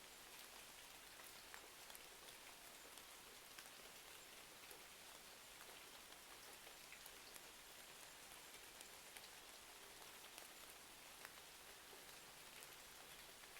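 Faint steady rain hiss, with many small scattered pops and ticks of a crackling fireplace mixed in.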